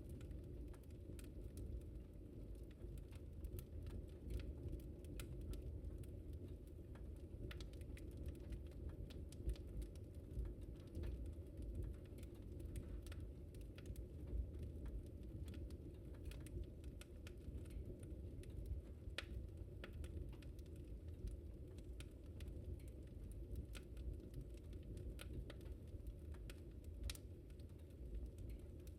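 Wood fire crackling in a fireplace: irregular small pops and snaps, several a second, over a low steady rumble of the flames.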